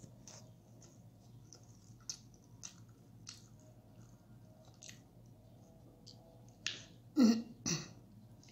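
Close-miked chewing and lip smacking of a person eating, soft wet clicks every half-second or so, with two louder short mouth sounds about seven seconds in.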